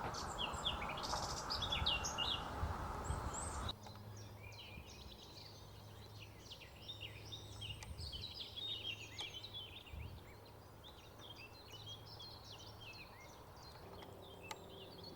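Small birds chirping and singing, many short high notes throughout. Wind rumbles on the microphone for the first few seconds and cuts off abruptly.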